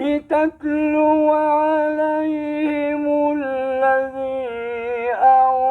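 Male reciter chanting the Quran in melodic tajweed style, holding one long note that steps down slightly in pitch about three and a half seconds in.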